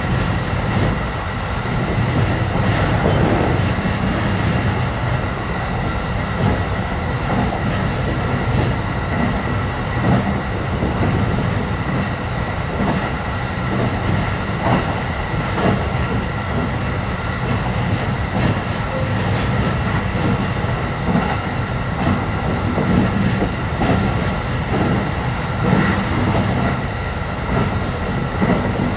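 Running noise heard inside a JR East E531 series electric train's passenger car at speed: a steady low rumble with scattered wheel clicks over the rails and a faint steady whine.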